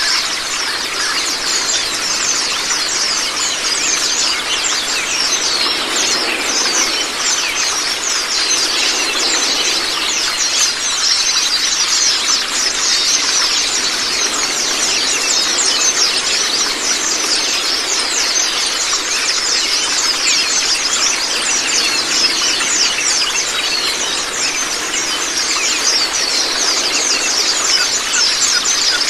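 Many white-eyes (Zosterops) singing together: a dense, unbroken chatter of fast high chirps and trills, over a steady rush of running water.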